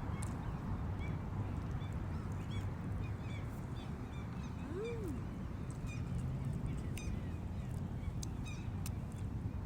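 Birds calling repeatedly, many short high-pitched calls scattered throughout, over a steady low rumble.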